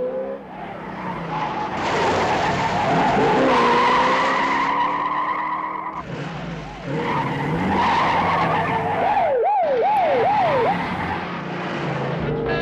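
Car-chase sound: car engines running hard and tyres squealing in long skids, with a police siren wailing rapidly up and down for a moment about three-quarters of the way through.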